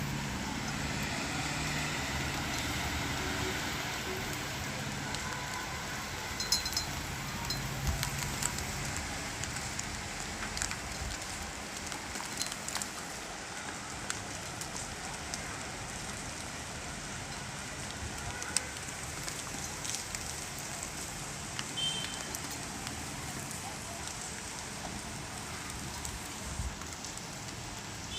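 Steady monsoon rain: an even hiss with scattered drop clicks throughout. A low hum underneath fades out about nine seconds in.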